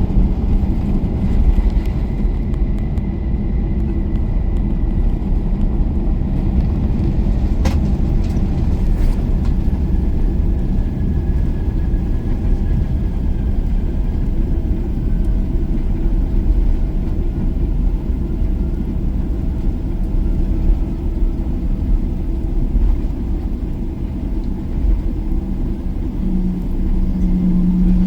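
Airliner cabin noise during landing: a steady low rumble of engines and airflow, with one sharp click about eight seconds in and a steady low hum coming in near the end.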